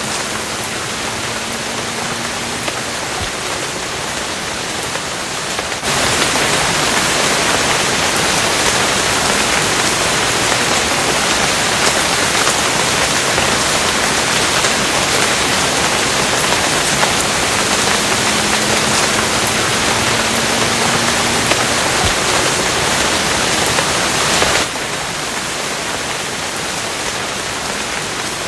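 Steady heavy rain, an even hiss of falling water. About six seconds in it turns suddenly louder and brighter, and near the end it drops back just as suddenly.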